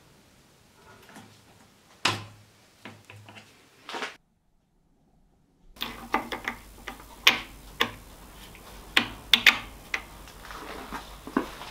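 Sharp clinks and knocks of metal workpieces and tools being handled while setting up a fixture on a machine, a loud knock about two seconds in and a quick run of clicks later. A brief gap of dead silence falls a little after four seconds.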